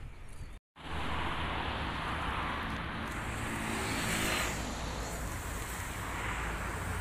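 Steady car engine and street noise, with a low engine hum, after a brief dropout to silence about half a second in.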